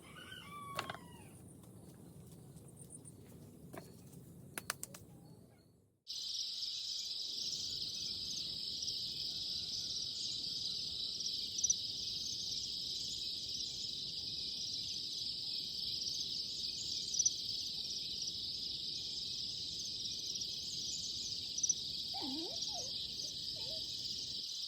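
A short bird call under a second in, then, after an abrupt cut about six seconds in, a steady high-pitched chorus of insects that carries on, with a brief falling bird call near the end.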